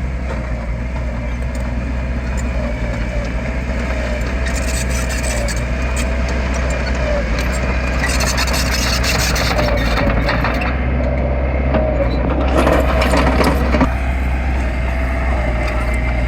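Diesel engine of heavy earthmoving machinery running steadily under a low rumble, with two louder, noisier stretches, one about halfway through and another a few seconds later.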